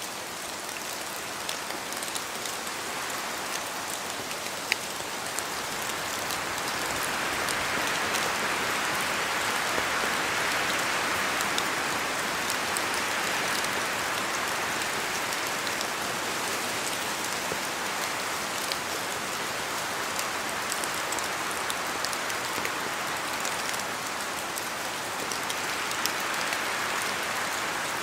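Steady rain falling in a spruce forest, with scattered sharp drops pattering from the branches and wind gusting through the trees, swelling from about a quarter of the way in and again near the end.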